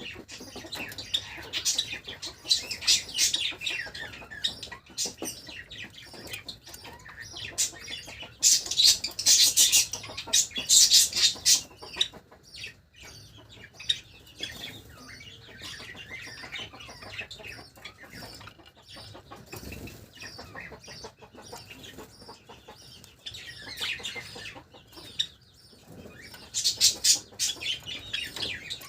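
Pet Java sparrows chirping and chattering, in louder bursts a few times with softer calls between, mixed with wing flutters.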